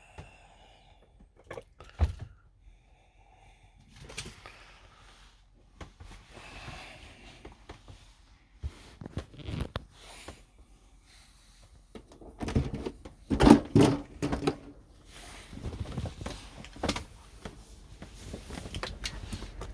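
Irregular knocks, thumps and clicks, like doors and objects being handled, in a small enclosed space. The loudest cluster of thumps comes about two-thirds of the way through.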